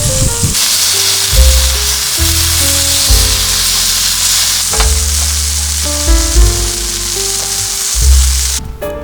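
Food sizzling as it fries in a pan, a dense steady hiss that cuts off suddenly near the end, heard with background music.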